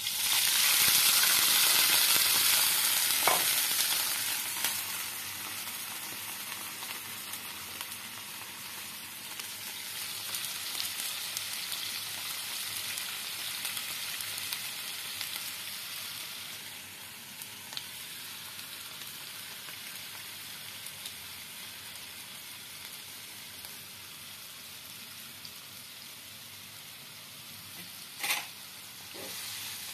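Rib-boiling broth poured into a hot non-stick wok of frying aromatics: a sudden loud burst of sizzling as the liquid hits the oil, settling within about five seconds into a steady frying sizzle. The pan is stirred with a spatula, with a few short knocks.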